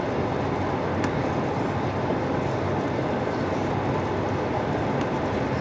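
Steady cabin noise inside an Airbus A220-300 airliner, a continuous even rumble of engine and airflow with no change in level.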